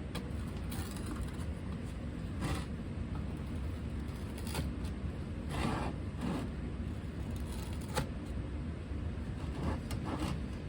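Casting sand being scraped and packed into a flask by hand: a handful of short scraping strokes spaced a second or two apart, over a steady low rumble.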